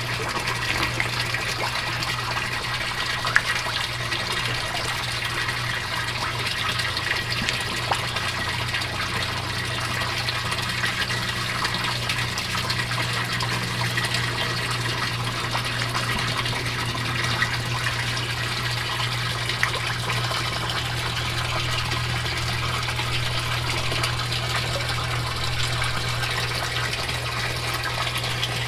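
Water running and splashing steadily over a low, steady hum, with a few small clicks.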